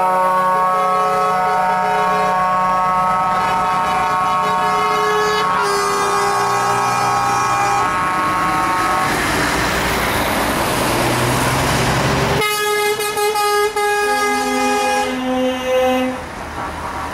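Truck air horns sounding in long held blasts, several tones at once with the pitch shifting as horns overlap. Partway through the horns give way to a rushing noise of passing trucks for a few seconds, then another horn chord starts abruptly.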